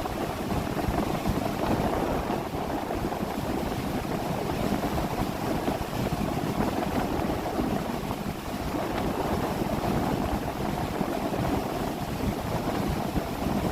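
A 30 ft motorboat running underway: a steady engine drone with water rushing along the hull and wind buffeting the microphone.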